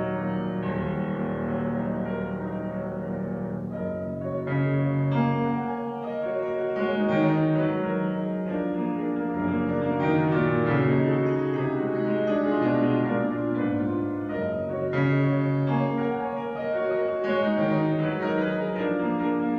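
Piano playing classical music, a continuous run of notes and chords.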